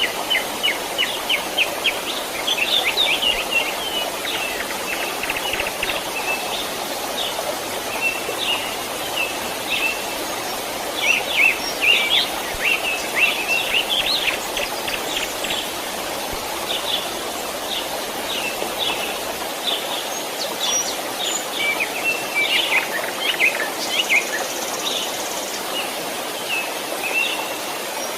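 Small birds chirping in quick bursts over the steady rush of a stream. The chirps cluster thickest a few seconds in, in the middle, and again near the end.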